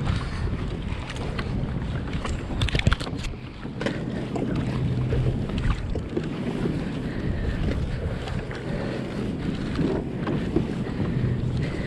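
Wind buffeting the microphone over water splashing against a kayak on the open bay, with a few sharp knocks about two to three seconds in.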